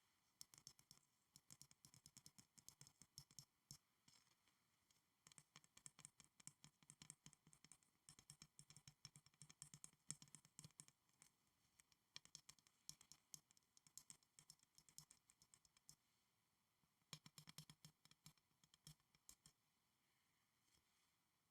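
Fast, light fingernail tapping on school supplies: dense runs of quick clicks and taps, broken by short pauses about four seconds in, around sixteen seconds and near the end.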